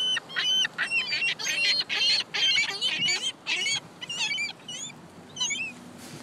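A flock of gulls calling, many short cries overlapping one another, thinning out to a few calls after about four and a half seconds.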